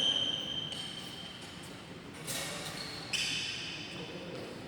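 Badminton play in a sports hall: sharp racket strikes with a high ringing ping that fades, one at the start and two more, about two and three seconds in.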